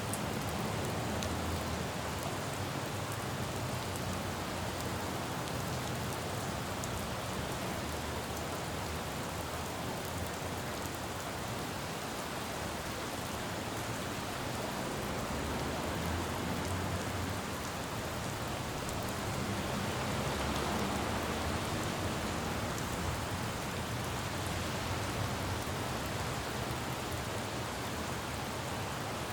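Steady rain falling on a city road, an even hiss with a low rumble of traffic beneath it; the hiss swells a little about two-thirds of the way through.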